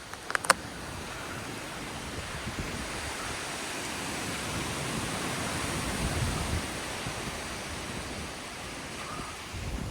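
Strong storm wind rushing steadily, partly buffeting the microphone, swelling to a gust about six seconds in. A single sharp click about half a second in.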